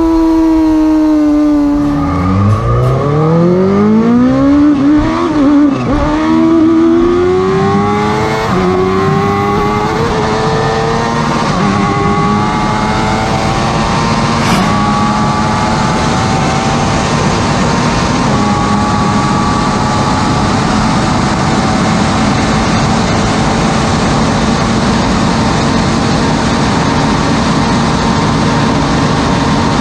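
Racing superbike engines at high revs: pitch falls briefly, then climbs repeatedly in steps through the gears while accelerating, and settles into a steady high-speed run.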